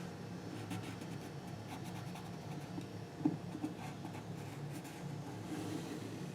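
Stabilo pencil scratching and scribbling on paper in short shading strokes, with one sharp tap about three seconds in.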